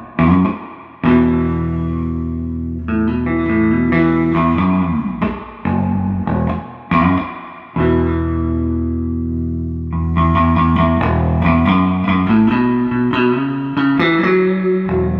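Electric bass guitar played through a 1973 Fender Twin Reverb Silverface guitar combo amp with 1978 CTS Fender Special Design speakers. It plays a riff of plucked notes in phrases, with a few short breaks between them.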